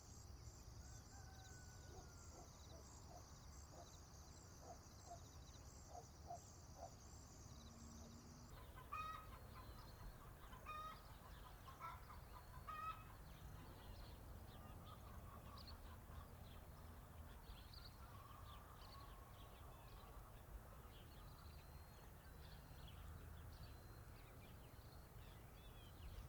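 Faint farmyard ambience: chickens clucking over a constant low rumble. A steady, pulsing high-pitched trill fills the first eight seconds or so and stops abruptly, after which scattered bird chirps and calls take over.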